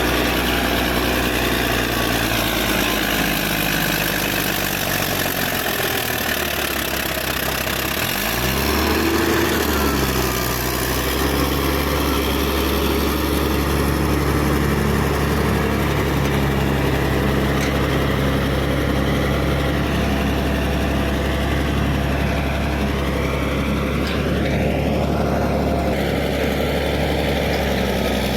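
Caterpillar D6D bulldozer's six-cylinder diesel engine running steadily. Its note dips and recovers about eight seconds in, and a rising whine comes near the end.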